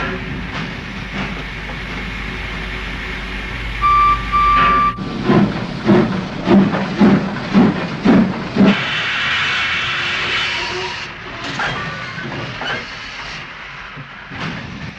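Steam locomotive sound effects: a steady rumble with two short whistle toots about four seconds in, then exhaust chuffing at about two puffs a second, then a hiss of released steam.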